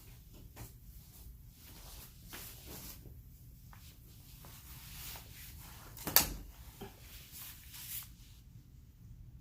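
Small objects being handled and set down on a tabletop: scattered soft clicks and taps, with one sharp knock about six seconds in.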